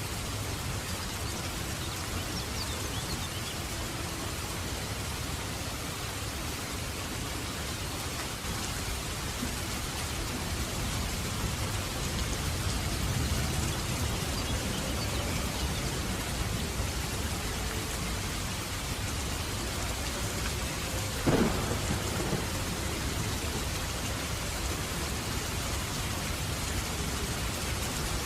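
Heavy rain falling steadily in a dense, even hiss, with a low rumble of thunder swelling near the middle. About three-quarters of the way through a single short, sharp crack stands out as the loudest sound.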